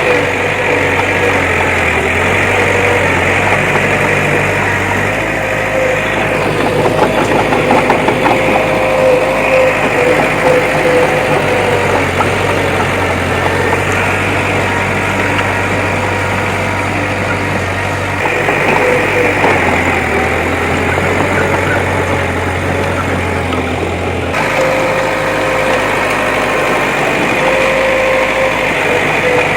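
Bulldozer's diesel engine running continuously, its low note shifting and stepping every few seconds.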